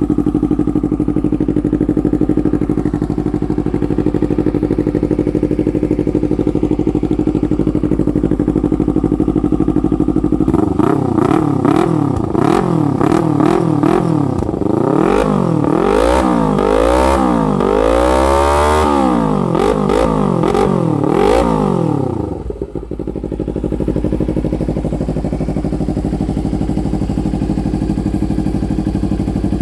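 Yamaha R25 V2's 249 cc parallel-twin engine running through an aftermarket full-system exhaust. It idles steadily, then from about ten seconds in it is revved in a series of quick throttle blips, climbing highest a little past halfway. It settles back to a steady idle a few seconds after that.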